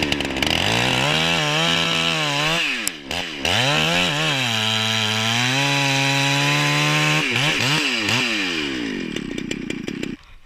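Two-stroke chainsaw running hard, its pitch dipping and rising several times as the revs change under load, then winding down and fading near the end.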